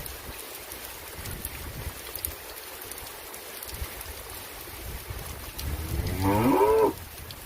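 Steady rain falling, with one drawn-out cow moo of about a second near the end, rising and then falling in pitch.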